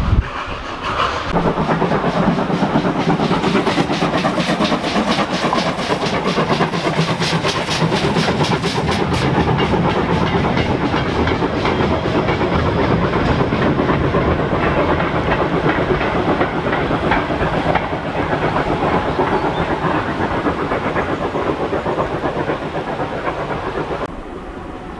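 A train running on heritage railway track, with a steady rhythmic clatter and some hiss. The sound drops away about a second before the end.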